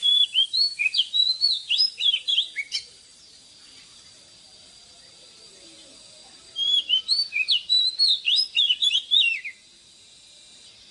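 Oriental magpie-robin singing: two rapid phrases of clear, varied whistled notes, each about three seconds long, separated by a pause of several seconds.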